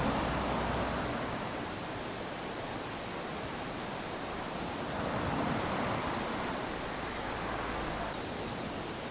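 Small waves washing up onto a sandy beach: a steady hiss of surf that swells twice, at the start and again about halfway through, and ebbs between.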